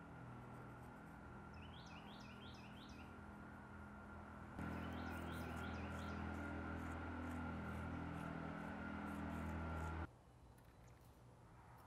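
A small bird chirping in two quick runs of four or five short falling notes, over a steady low hum that gets louder about four and a half seconds in and drops away near the end.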